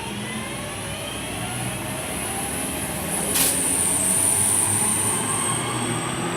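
Class 323 electric multiple unit starting to pull away, its traction whine slowly rising in pitch under a steady high-pitched whistle. A sharp knock about three and a half seconds in.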